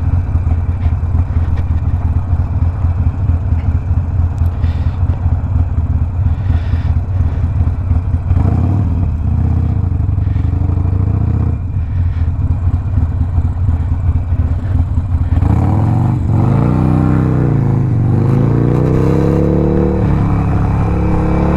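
Harley-Davidson Sportster Iron 1200's V-twin, with a Two Brothers 2-into-1 exhaust, running at low speed with a choppy, uneven rumble. From about 8 s in it accelerates, and from about 15 s its pitch rises and falls repeatedly as it pulls through the gears.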